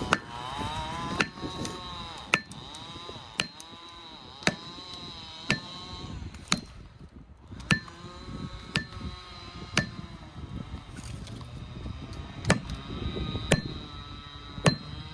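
A felling wedge being driven into a tree's cut with hard blows, about one a second, with a short pause near the end. A chainsaw idles underneath, its pitch dipping with each blow.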